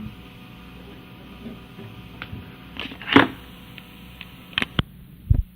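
A few scattered clicks and knocks over a low steady hum, the loudest a little after three seconds, with a low thump near the end.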